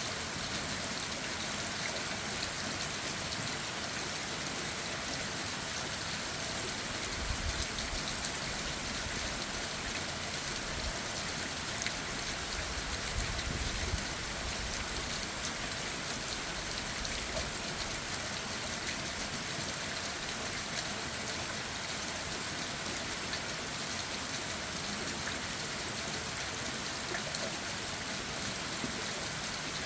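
Steady rain falling on leaves and ground, an even patter throughout, with a couple of brief low rumbles about seven and thirteen seconds in.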